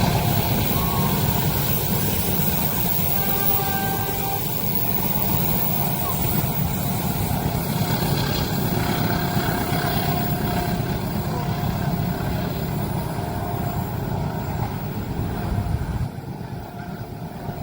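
A train passing over a level crossing: a steady, heavy rumble with faint high tones now and then. It drops off suddenly about sixteen seconds in.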